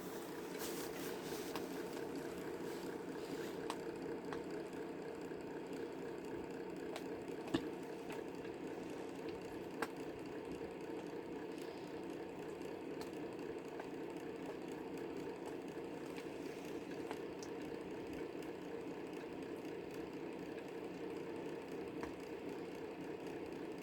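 A steady mechanical hum, with a few sharp clicks or taps over it.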